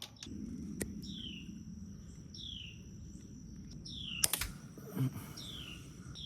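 A bird calling over and over, a short high note sliding downward about every second and a half, over a faint steady high whine and low background rumble. About four seconds in there is a sharp snap.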